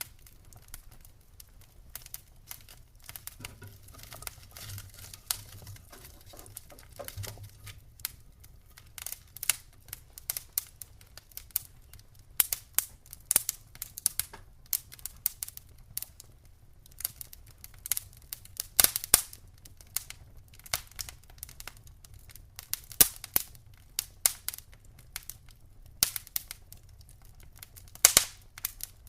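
Wood fire crackling in a fireplace: irregular sharp pops and snaps from the burning logs, some louder, over a faint steady low hum.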